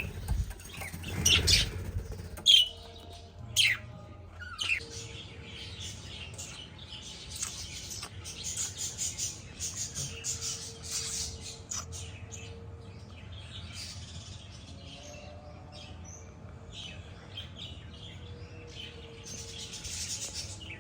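A group of small pet birds chirping and twittering continuously, with a few louder, sudden chirps or knocks in the first few seconds.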